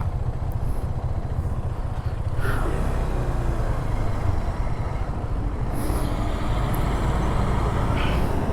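Road traffic with engines running, a steady low rumble, and a few short higher-pitched sounds about two and a half, six and eight seconds in.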